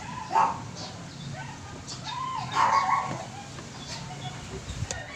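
A dog barking twice, once about half a second in and again, longer, around three seconds in, over a steady low hum.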